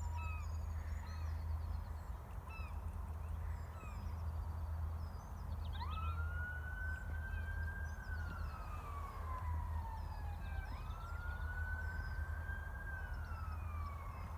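Emergency vehicle siren wailing in two slow rise-and-fall cycles, starting about six seconds in. Small birds chirp throughout over a steady low rumble.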